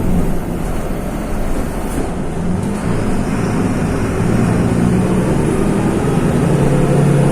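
Mercedes-Benz OM-926 LA turbodiesel of an OF-1724 city bus running under way, its engine note climbing in pitch from about two seconds in and again near the end as the bus pulls.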